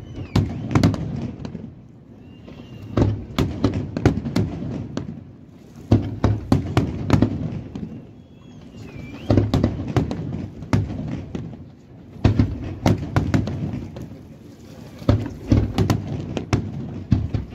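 Aerial fireworks shells bursting in volleys of sharp bangs. A new cluster of reports comes about every three seconds, with a quieter rumble between.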